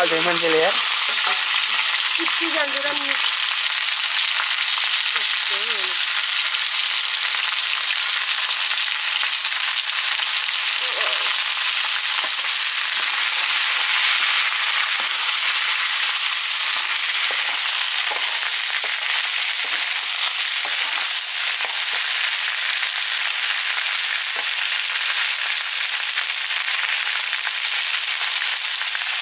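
Sliced squash frying in hot oil in a black iron wok, a steady sizzle throughout, with a spatula stirring the pieces around the pan.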